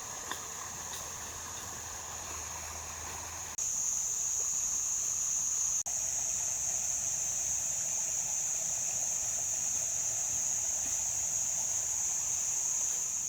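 Insects droning in a steady, high-pitched chorus, louder after about three and a half seconds.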